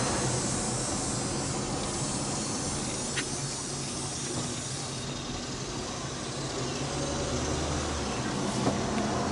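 A car's engine humming steadily under road and tyre noise, heard from inside the moving car, with one short click about three seconds in.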